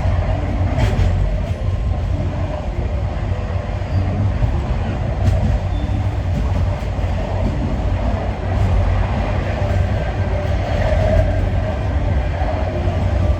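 Passenger train running on the line, a steady low rumble of the carriage on the rails with a few faint clicks, heard from on board.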